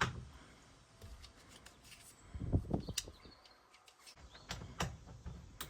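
Light clicks, knocks and rustling of plastic interior trim being handled and taken down, with a few sharper knocks in the second half.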